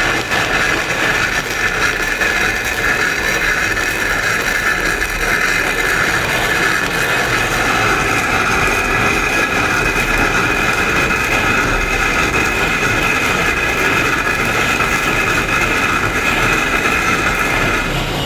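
Electric power tool working stone, running steadily with a high whine, stopping abruptly near the end.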